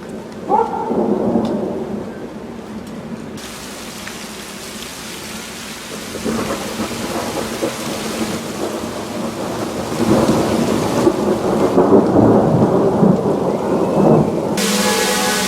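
Thunder from a winter thunderstorm rumbling in long rolls, growing loudest in the last third, over a steady hiss of falling graupel that sets in a few seconds in. Music comes in at the very end.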